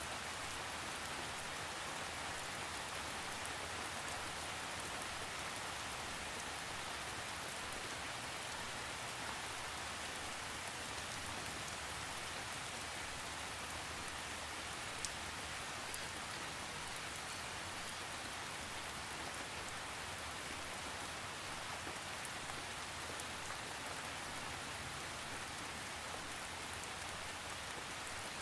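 Steady rain falling without thunder: an even hiss with a couple of sharper drop hits about halfway through.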